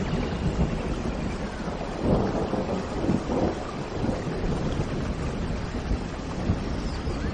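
Steady heavy rain with a low rumble of thunder that swells about two seconds in.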